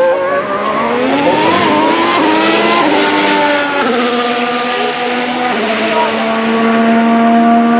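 Formula 1 car's 1.6-litre turbocharged V6 hybrid engine running. Its pitch climbs for about three seconds, then drops in a few steps around the middle and holds a steady note.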